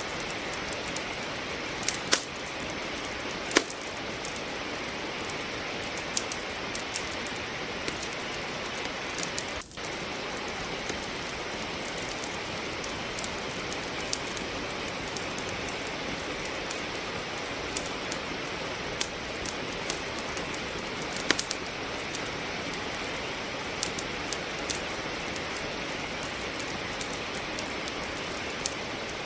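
Steady hiss of rain, with scattered sharp crackles and pops from firewood burning in a fireplace, a few of them louder than the rest. The sound dips briefly about ten seconds in.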